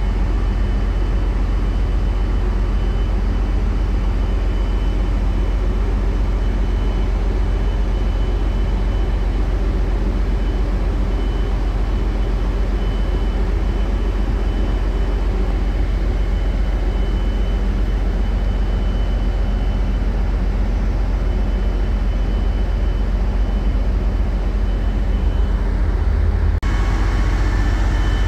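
Heavy diesel engines running steadily with a deep, continuous rumble and a faint steady whine above it. Near the end the sound changes abruptly to a similar rumble with a few faint added tones.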